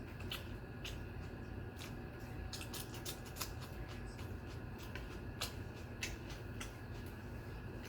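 Close-up eating sounds of a person chewing rice and curry: irregular wet clicks and smacks of the mouth, over a steady low hum.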